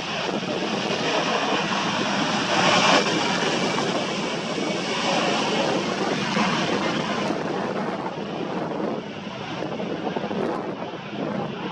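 Jet aircraft engines of a large airliner or freighter passing at an airport, a loud steady rushing noise that peaks about three seconds in and eases a little later on.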